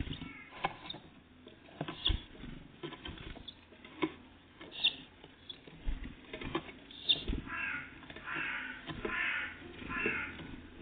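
Small sharp taps and knocks, typical of tits pecking and landing at a feeder. From about three quarters of the way in come four harsh, rasping calls in a row, like a crow cawing.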